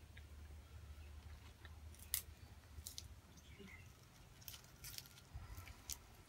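A person chewing a mouthful of food, faint, with a few sharp crisp clicks and crunches: one about two seconds in and a cluster between about four and a half and six seconds in.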